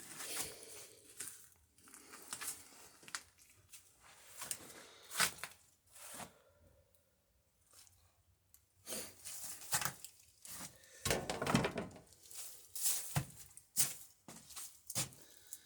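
Irregular knocks, clicks and short scrapes of wood and tools being handled at a workbench, with no steady rhythm.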